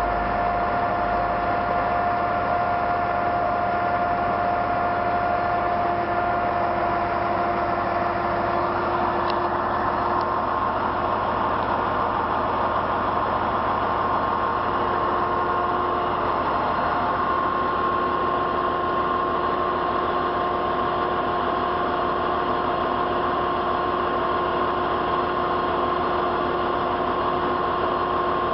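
Heavy tow truck's diesel engine running steadily, its pitch shifting upward about ten seconds in.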